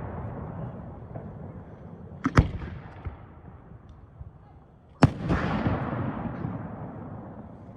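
Aerial fireworks shells bursting: a quick double bang about two seconds in, then a loud boom about five seconds in with a long fading rumble after it.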